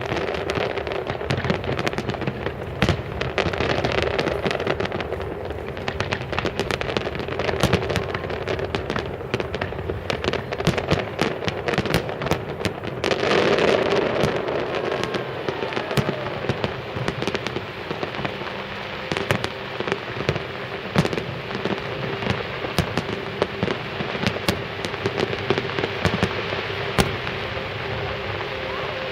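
Fireworks display: a continuous barrage of bangs and crackles from exploding shells, densest about thirteen seconds in.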